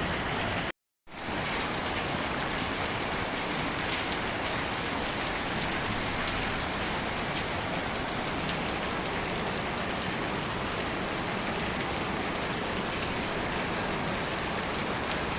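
Heavy rain pouring down steadily, with a brief drop to total silence just under a second in.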